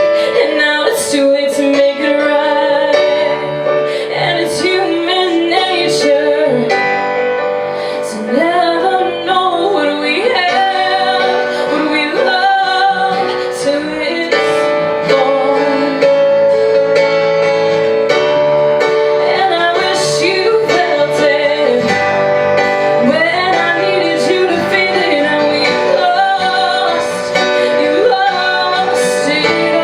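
A woman singing a song live over instrumental accompaniment from two musicians.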